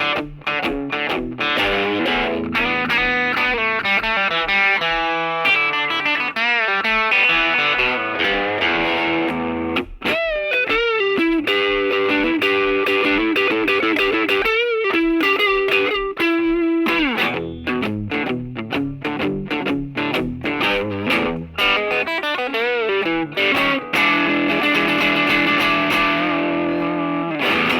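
1979 Greco SE500 Super Sounds Stratocaster-type electric guitar played through an amplifier, mixing picked single-note lines and chords. Held notes are shaken with vibrato in the middle, and the playing stops at the end.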